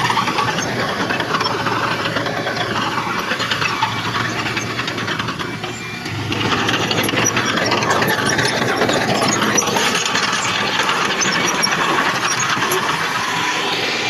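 Heavy diesel earthmoving machinery running hard, its engine noise mixed with metallic clatter. The sound eases briefly about six seconds in, then comes back up.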